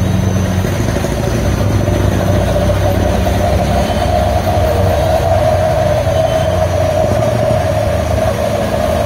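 A heavy vehicle's engine running steadily: a low hum with a higher droning tone above it that grows louder about four seconds in.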